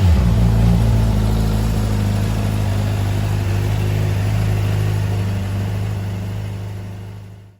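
Honda CBR600RR's inline-four engine settling back from a throttle blip and then idling steadily, fading out near the end.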